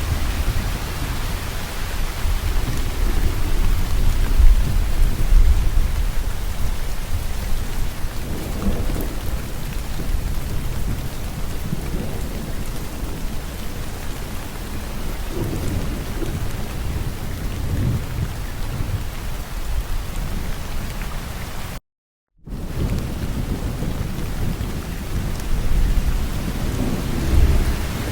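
Steady rain falling, with low thunder rumbling and swelling several times. About two-thirds of the way through, the sound cuts to silence for about half a second and then resumes.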